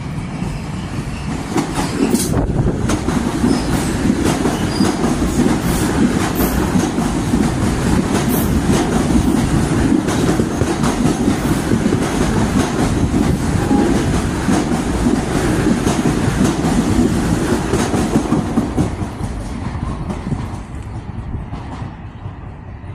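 Metro-North electric multiple-unit commuter train passing close at speed, a steady rumble with wheels clattering over the rail joints, fading away about three seconds before the end as the last car goes by.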